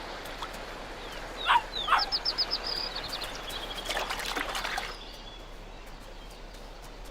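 Wolf pups calling: two quick yelps sliding down in pitch, then a rapid run of high squeaks and a few more high-pitched calls, over a steady outdoor hiss.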